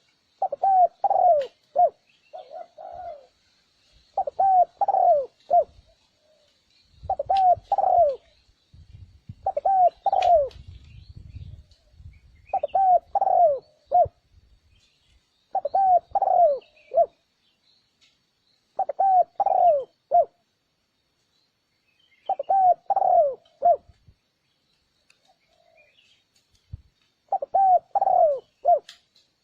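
Spotted dove cooing: short phrases of three or four coos, repeated about every three seconds. It is a recorded call played to draw and excite wild spotted doves for trapping.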